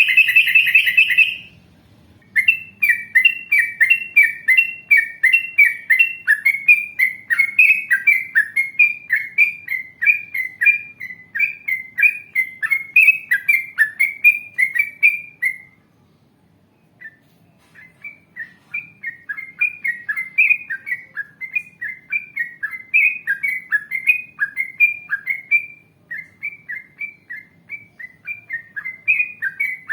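Yellow-vented bulbul (trucukan) singing in long, fast runs of bright chirping notes, about two to three a second, each sliding down in pitch. The runs break off briefly about halfway through and again near the end.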